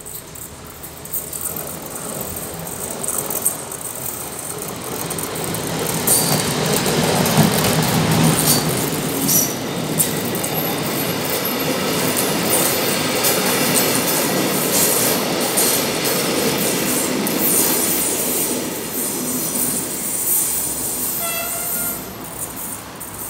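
Passenger train hauled by an electric locomotive passing close by at a level crossing. The rolling noise builds over the first few seconds, with wheels clacking over rail joints, stays loud while the coaches go by, and eases near the end. A brief high tone sounds shortly before the end.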